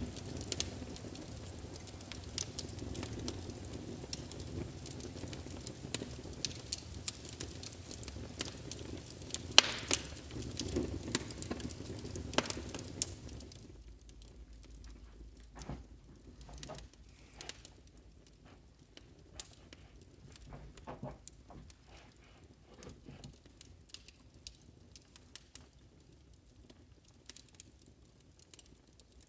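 Wood fire crackling, with sharp pops over a low rumble. About halfway through the rumble drops away and the pops become quieter and sparser.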